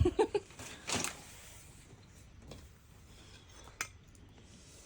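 A few scattered light clicks and knocks of tableware, as of a spoon or dish being handled, with quiet stretches between.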